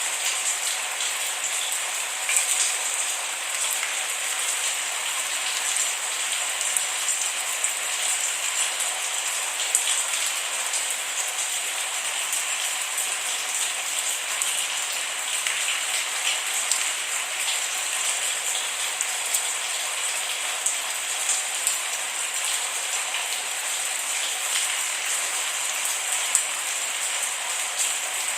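Steady rain falling, a constant hiss with many small drop ticks and no thunder.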